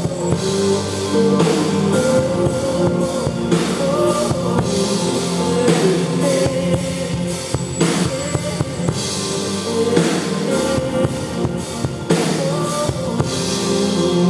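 Live pop-rock band playing loudly, with drum kit, bass and guitar, and crashing hits about every two seconds.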